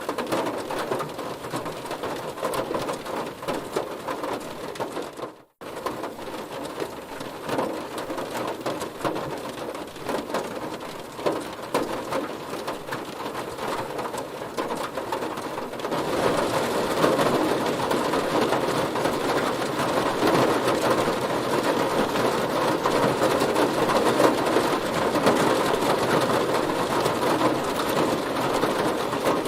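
Heavy rain falling on a car, a dense, steady patter of drops hitting the bodywork. The sound cuts out for an instant about five seconds in and turns louder and heavier a little past halfway.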